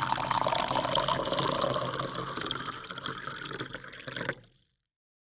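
A steady rush of pouring, water-like noise that eases a little and then cuts off suddenly about four and a half seconds in.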